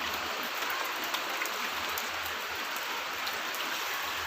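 Steady, even rushing hiss that the recorder hears as coming from the clouds and says is not an aircraft; its source is unidentified.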